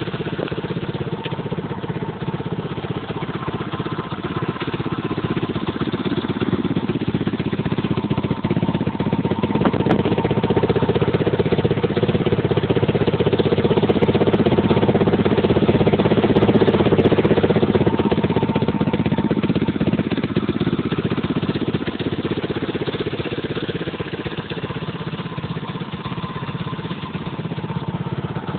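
A 150 cc dirt bike engine running steadily. It grows louder toward the middle and then eases back down.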